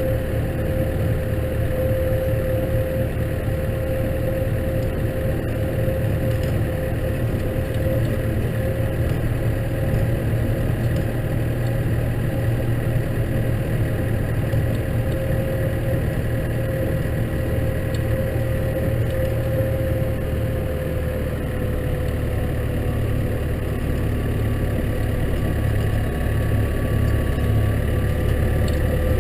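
Case tractor's engine running steadily while snow ploughing, a low drone with a steady whine over it.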